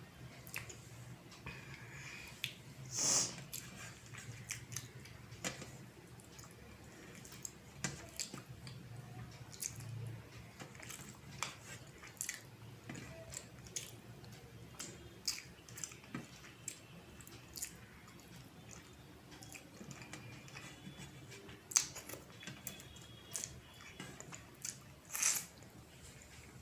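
A person chewing food close to the microphone, with many soft mouth clicks and smacks and two louder, short hissy smacks, one about three seconds in and one near the end.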